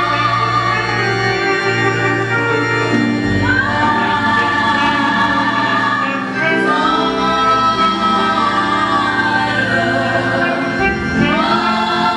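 Choir singing a gospel hymn with organ accompaniment.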